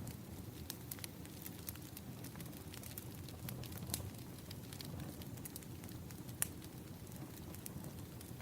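Wood fire crackling: a steady low rumble of burning logs with frequent small sharp crackles, and a louder pop about six seconds in.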